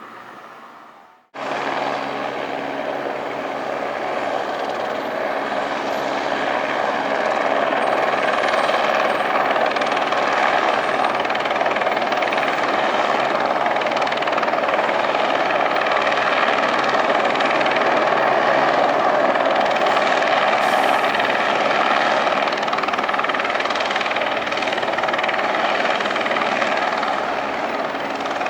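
Loud steady engine drone with a low hum, starting abruptly about a second in.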